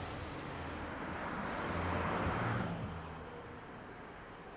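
Train running noise, a steady rushing with a low rumble, that swells about two seconds in and then drops away sharply just under three seconds in, leaving a quieter, fainter rushing.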